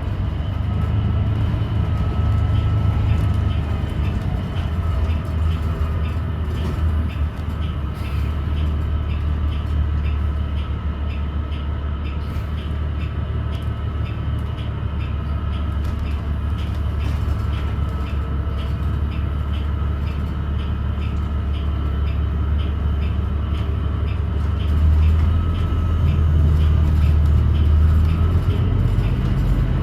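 Interior ride noise of a 2017 New Flyer XDE40 diesel-electric hybrid bus: a steady low rumble with a faint thin whine and a fast, even ticking, louder near the end. This is the unusual noise the rider suspects comes from the transmission, or perhaps a loose screw or panel.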